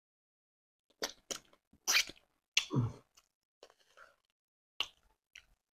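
Close-miked eating noises from biting and chewing sweet potato and stew. About six separate wet smacks and clicks start about a second in, the loudest two to three seconds in.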